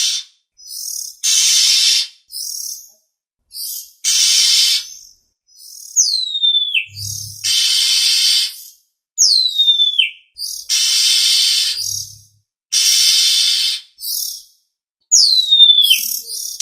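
Oriental magpie-robin (kacer) calling: harsh, raspy scolding calls of about a second each, repeated every one and a half to three seconds. Three quick falling whistles come between some of them.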